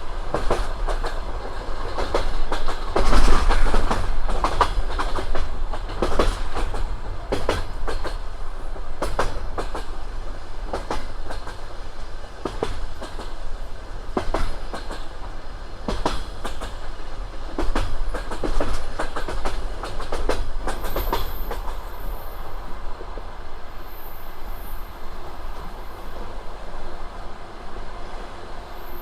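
Railway wheels clattering over rail joints as a train rolls along: a steady rumble with repeated sharp knocks. It is loudest a few seconds in and eases off toward the end.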